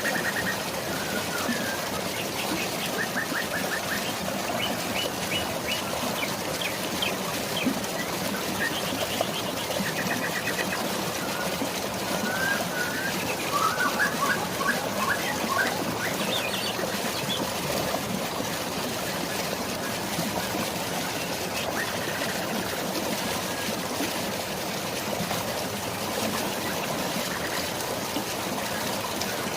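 Steady rushing of running water, with short bird chirps and quick trills over it through roughly the first half; after that the birds fall away and only the water goes on.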